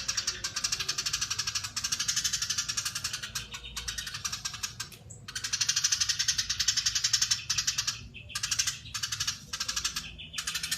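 Eurasian tree sparrow giving long, fast, tightly packed chattering (crecetan), with a few short breaks in the second half.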